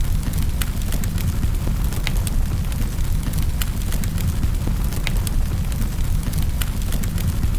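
Wood fire crackling in a fireplace: sharp pops and snaps at irregular moments, several a second, over a steady low rumble of the burning logs.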